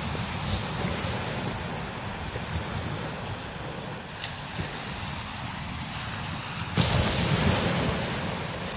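Strong wind blowing steadily, with a low rumble of wind buffeting the microphone. A sudden stronger gust hits about seven seconds in and eases off over the next second or so.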